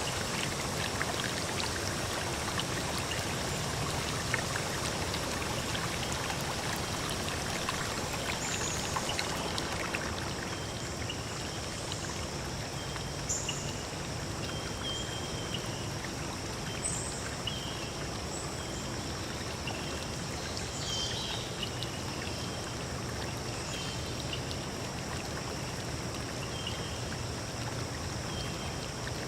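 A stream running steadily, easing slightly about a third of the way in. Short high chirps come and go over it through the rest.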